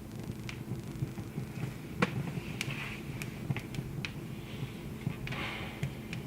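Wood fire crackling: a handful of sharp pops and snaps scattered over a low steady rumble, the loudest pop about two seconds in.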